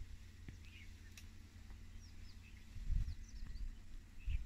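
Birds chirping in short, high, falling notes, over a low buffeting rumble that swells about three seconds in and again near the end.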